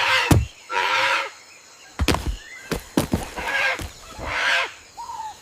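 Parrot squawking: about four harsh calls, each about half a second long, with a few sharp thumps about two seconds in.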